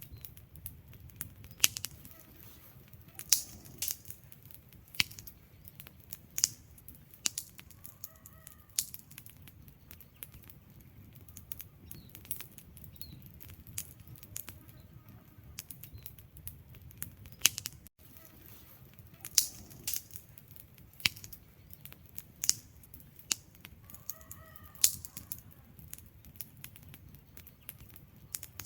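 Wood fire crackling in a fireplace: irregular sharp pops and snaps over a low, steady rumble of burning logs, with a faint short whistling note twice.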